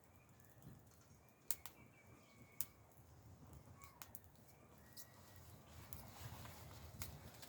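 Quiet wood campfire giving a few sharp, isolated pops and crackles, with faint bird calls in the background.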